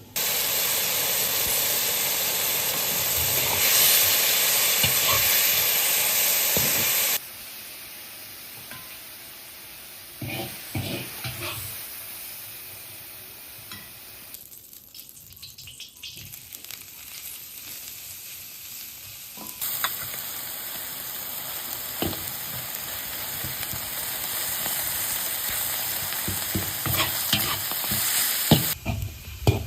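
Food frying in a hot pan: a loud, even sizzle for about the first seven seconds, then a quieter sizzle with a utensil clinking and scraping against the pan as the food is stirred, and a quick run of clatters near the end.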